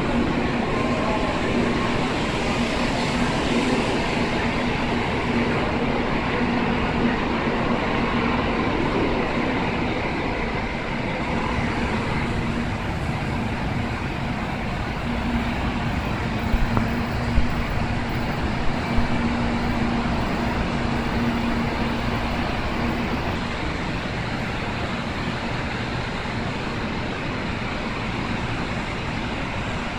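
Tokaido Shinkansen train pulling out of the station past the platform: a continuous rush of running noise with a steady low hum, easing off over the last several seconds as the train clears the platform. A few sharp clicks come a little past the middle.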